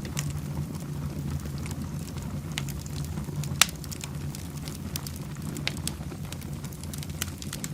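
Wood fire burning in a fireplace: a steady low rumble of flames with frequent small crackles and pops, and one sharper pop about three and a half seconds in.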